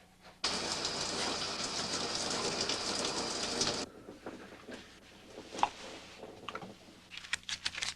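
Water running in a loud steady hiss, as from a shower, starting suddenly about half a second in and shut off abruptly about three and a half seconds later. After it, small clicks and rustling.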